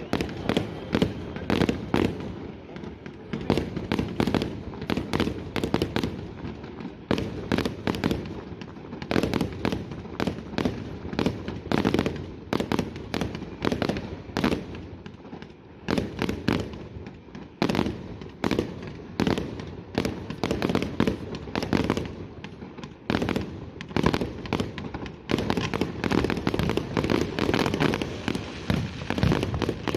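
Aerial fireworks display: a dense run of sharp bangs, several a second, over a steady low rumble of shell bursts.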